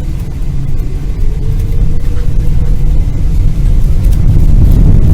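Low rumble inside a Boeing 777-200ER's cabin, growing steadily louder, with a faint rising tone from the engines.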